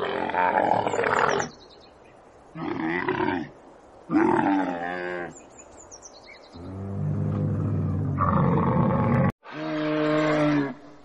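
A series of loud calls from a large animal, coming in separate bursts about a second long with gaps between them, with a sudden cut about nine seconds in before the last call.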